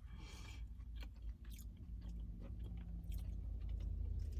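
A person chewing a mouthful of food close to the microphone, with small scattered mouth clicks over a low steady hum.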